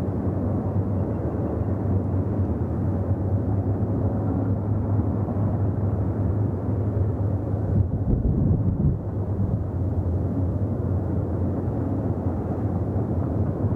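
CSX intermodal freight train running past, a steady low rumble.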